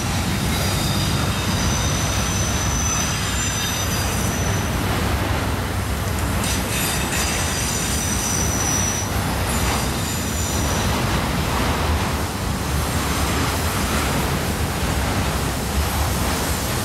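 Freight train of multilevel autorack cars rolling past with a steady low rumble of wheels on rail. High-pitched wheel squeals come and go over it, the longest about three seconds near the start.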